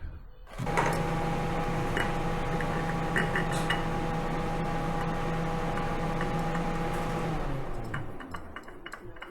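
A machine running at a steady pitch for about seven seconds, starting suddenly and then stopping, with a few light metallic clicks over it.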